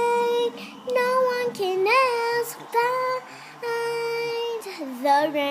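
A young girl singing unaccompanied, holding long sustained notes with pitch slides between them.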